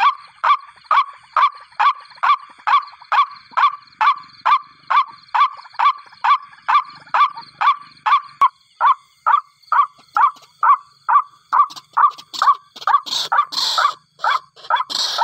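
White-breasted waterhen (ruak-ruak) call: a long series of short, harsh notes at about two a second. The notes grow less regular and a little slower toward the end, where a louder noisy burst breaks in. A faint steady high tone runs behind.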